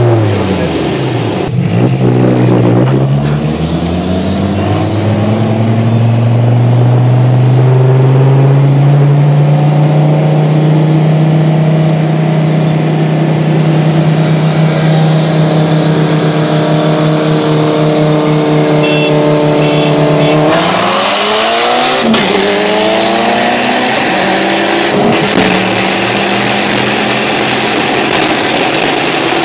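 Car engine under hard acceleration through the gears. Quick gear changes come in the first few seconds, then a long pull with the pitch climbing slowly in a high gear. About twenty seconds in the pitch drops at a gear change and climbs again.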